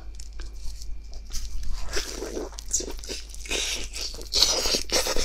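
Crunchy biting and chewing of a crispy pan-fried stuffed flatbread (da xianbing), heard close-miked as irregular crackles of the crust, busiest near the end.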